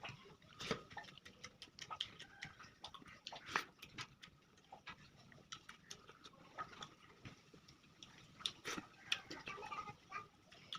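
Close-miked eating sounds: chewing and mouth smacking on rice and curry, a steady run of short, irregular wet clicks.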